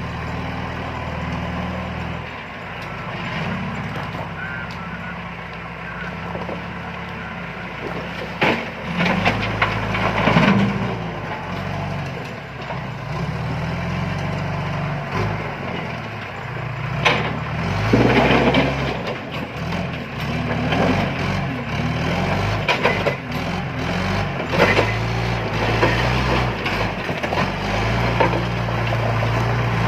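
John Deere 310E backhoe loader's diesel engine running and revving up and down as it works, with several bursts of clattering from the stone being handled, loudest about 8 to 11 seconds in and again around 17 to 19 seconds in.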